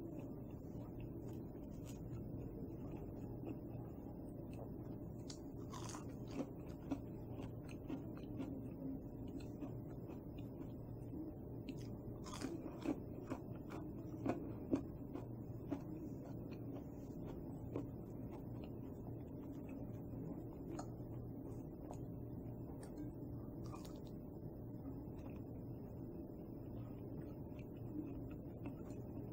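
Faint steady room hum with scattered soft clicks and small crunches, a few a little louder about six seconds in, between twelve and fifteen seconds, and near twenty-four seconds.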